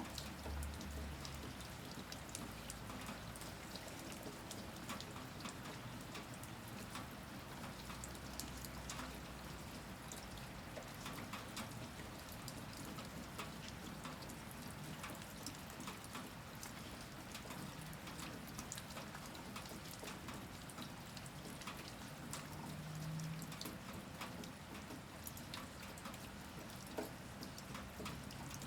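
Steady rain, a constant hiss with many individual drops ticking and dripping onto hard surfaces.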